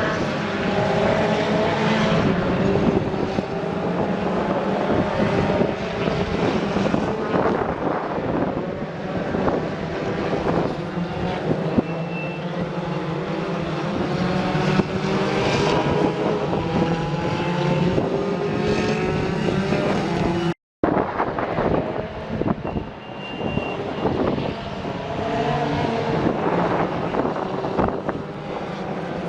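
BTCC touring cars racing past, their engines repeatedly rising in pitch through the gears and dropping back, several cars overlapping. The sound cuts out completely for a moment about two-thirds of the way through.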